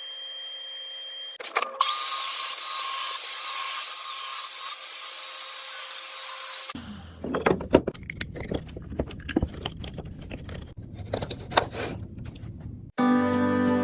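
A power tool cutting wood with a steady high whine for about five seconds, then a run of irregular sharp strokes of tools on wood. Music comes in near the end.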